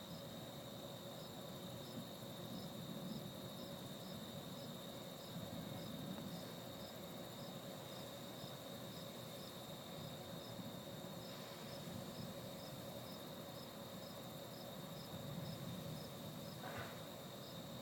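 Night insects chirping faintly: a steady high trill with a regular pulsed chirp about twice a second over it. A brief faint sound comes near the end.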